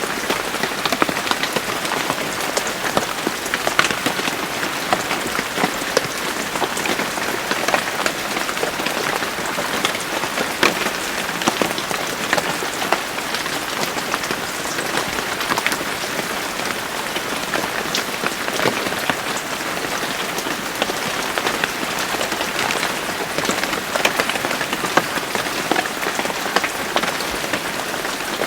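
Steady rain falling, with many separate drops ticking sharply on a hard surface through the constant hiss.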